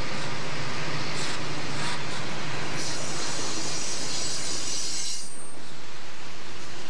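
Freight cars rolling past on steel rails with a steady rumble. About three seconds in, a high metallic wheel squeal sets in and lasts a couple of seconds before it fades.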